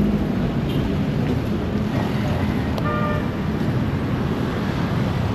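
Busy city street traffic: a steady rumble of passing vehicles, with a short pitched tone sounding briefly about three seconds in.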